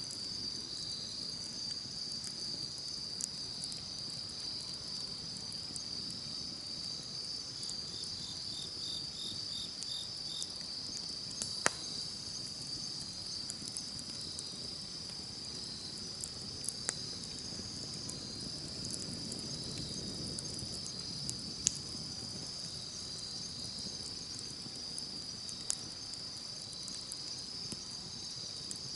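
Insects, crickets among them, trilling steadily in a high, even chorus, with a short run of quick chirps from another insect about eight seconds in. Now and then a sharp crack from a campfire, three of them plain, over a soft low hiss of the fire.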